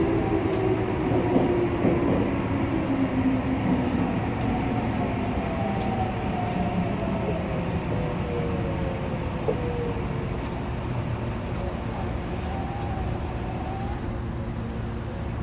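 Saitama Railway 2000 series subway train heard from inside the car while braking, with the traction-motor whine falling steadily in pitch as it slows and the running rumble easing off.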